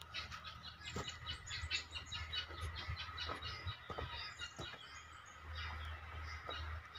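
Birds chirping in fast runs of short, high chirps over a steady thin whine, with a low rumble and a few soft knocks underneath.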